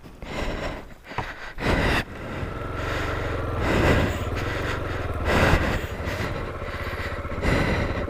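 Honda XR250L's single-cylinder four-stroke engine running steadily from about two seconds in, with a couple of brief rises in level, after a few scattered knocks and scrapes at the start.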